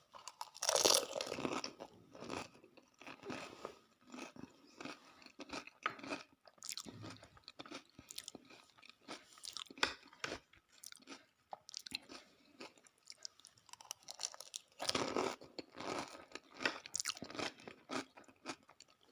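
Close-mic crunching and chewing of dahi puri, crisp hollow puri shells filled with curd, potato and bhuja. There are two loud bouts of crunching, one about a second in and one around fifteen seconds, with wet chewing and crackling between them.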